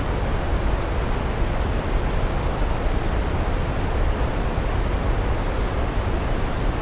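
Waterfall rushing in a steady, unbroken wash of noise, heaviest in the low end, with no change in level.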